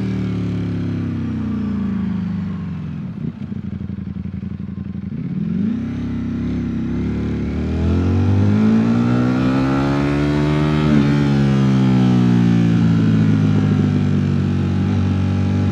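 Ducati Streetfighter V4 S's 1103 cc V4 engine slowing down with its pitch falling, throbbing low for a couple of seconds, then pulling away. Its pitch rises steadily until about two-thirds of the way through, then it holds an even, higher note at cruising speed.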